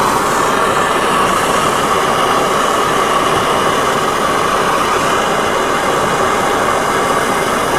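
A hand-held gas torch burning with a constant hiss, heating a Chevy 350 connecting rod's small end so the gudgeon pin can be press-fitted.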